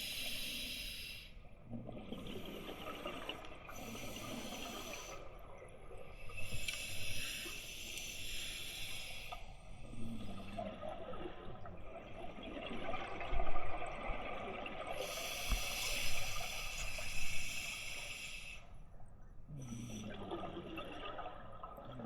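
Scuba diver breathing through a regulator underwater: hissing inhalations alternating with burbling bursts of exhaled bubbles, several breaths in a row.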